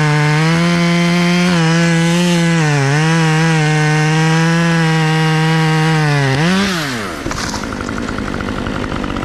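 Chainsaw at full throttle cutting through a white oak limb, its pitch dipping slightly now and then as the bar loads in the wood. About six and a half seconds in, the throttle is released and the saw drops to a rough idle.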